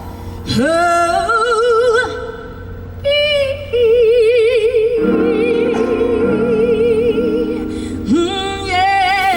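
Live female vocalist singing a slow soul ballad with a band. She holds one long note with wide vibrato for about four seconds, while the band's chords come in under it.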